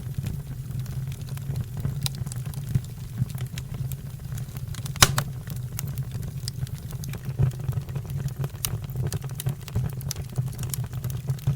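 A fire burning with a steady low rumble and frequent irregular crackles and pops, one sharper pop about five seconds in.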